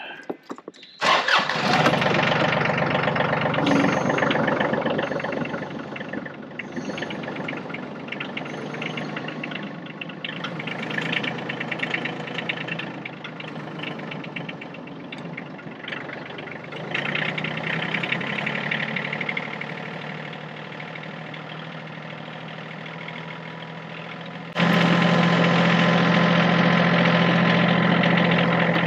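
Yanmar tractor's diesel engine starting about a second in, then running steadily. It gets abruptly louder near the end.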